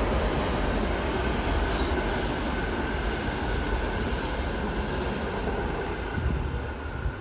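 Passenger train running past on the line, a steady, loud rumble of wheels on rail that eases slightly toward the end, with a faint high whine joining about one and a half seconds in.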